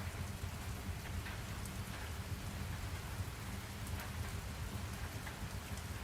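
Steady rain-sound ambience: continuous rainfall with scattered drops ticking, over a constant low rumble.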